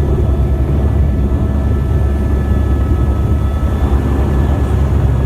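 Helicopter in flight heard from inside the cabin: a steady, loud rotor and engine rumble with a faint constant whine above it.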